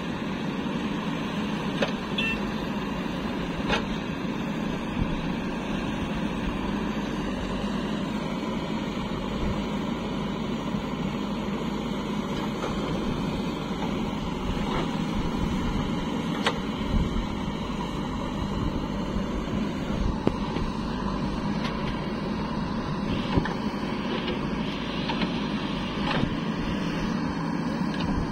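JCB 3DX backhoe loader's diesel engine running steadily, with a few sharp knocks scattered through.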